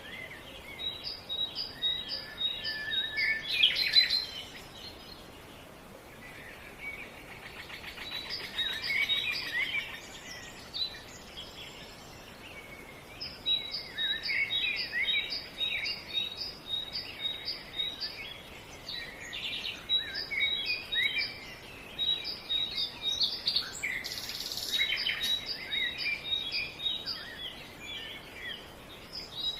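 Several birds chirping and calling, with runs of short, evenly repeated high chirps over a faint steady background hiss.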